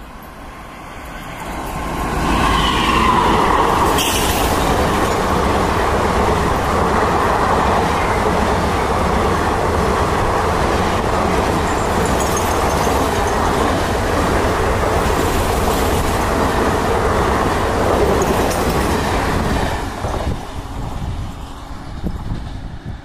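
Superfast express train hauled by a WAP-4 electric locomotive passing at speed. The rolling noise swells over the first two seconds, holds loud as the long rake of coaches rushes by, then falls away about twenty seconds in.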